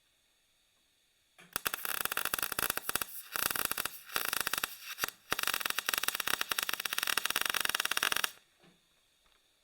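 Welding on steel plate, a dense, even crackle that starts about a second and a half in, stops briefly two or three times and ends shortly before the close.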